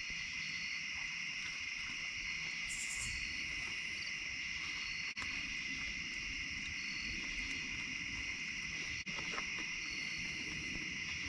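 Steady chorus of crickets and other night insects trilling without a break, with short higher chirps coming in now and then.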